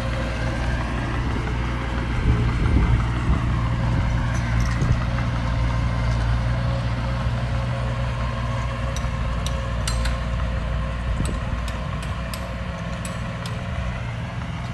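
Diesel engine of an earthmoving machine running steadily. From about nine seconds in, scattered sharp metallic clicks and clanks come through over it.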